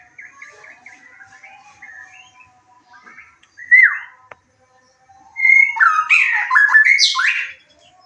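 White-rumped shama (murai batu) singing. It starts with soft twittering, gives a short loud whistled phrase about halfway through, then a longer loud burst of varied, rising and falling whistled notes near the end, over faint chirping from other birds.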